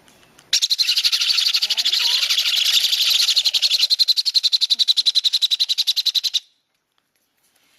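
Baby parrot chick giving its rapid, rhythmic begging call while being hand-fed from a syringe, about ten pulses a second. This is the chick's feeding response. It starts about half a second in and cuts off suddenly about six seconds in.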